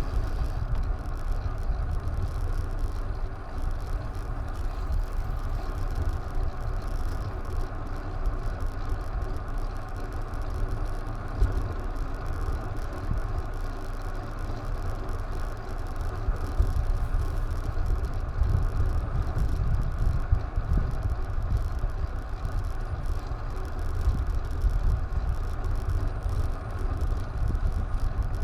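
Steady wind buffeting and road rumble picked up by an action camera during a ride, a continuous low rumble with no distinct events.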